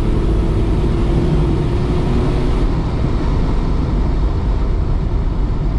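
Mitsubishi 3000GT VR4's twin-turbo V6 running under way, heard inside the cabin with heavy road and tyre noise; a steady engine tone fades about halfway through, leaving mostly road noise.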